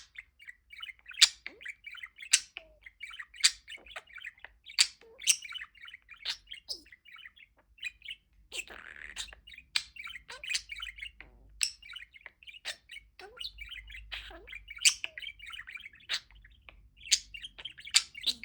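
Pet budgerigar warbling: a running chatter of quick chirps, broken by sharp, high tweets about once a second.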